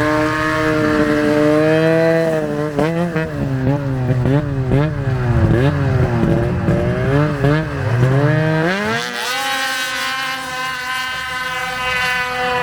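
A small off-road vehicle engine revving up and down again and again, then climbing and holding a steady high pitch from about nine seconds in.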